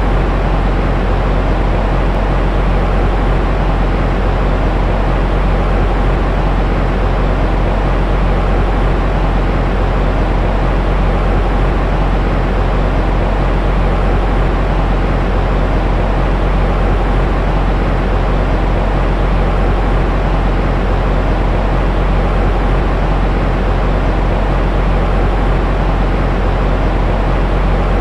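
Steady white noise for soothing a baby, weighted toward the low end: a deep, even rushing hiss that never changes.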